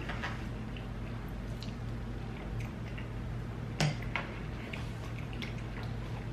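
Close-miked eating: wet chewing and mouth sounds with scattered small clicks, over a steady low hum. One sharper knock a little past halfway.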